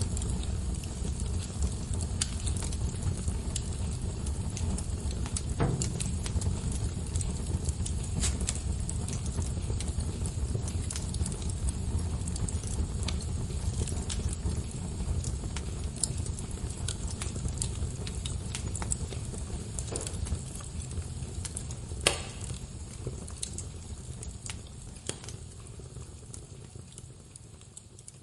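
Wood fire burning, a steady low rumble of flames with scattered sharp crackles and pops of burning logs, one louder pop about three-quarters of the way through. The sound fades down near the end.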